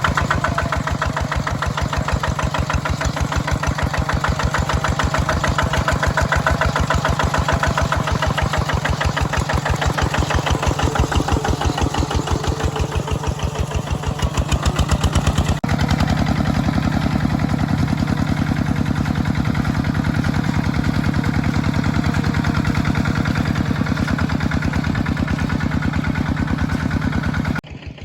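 Mini tractor engine running with a steady, rapid chugging beat while working a field. Its tone shifts suddenly about halfway through, then runs on evenly.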